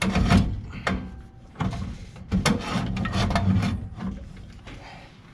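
Knocks, clunks and scraping as a heavy replacement air-handler blower motor is shifted and pushed into place on its mount, several knocks in the first four seconds and then quieter.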